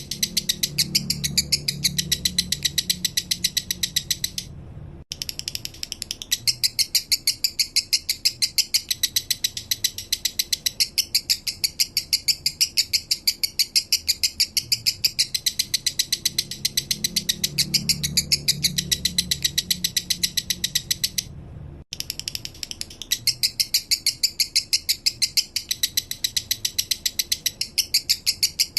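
Male lovebird singing its 'minor' song: a fast, even series of sharp high chirps, about five a second, breaking off briefly twice.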